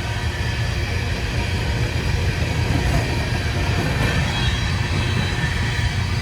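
Empty coal freight train rolling past with a steady, low rumble.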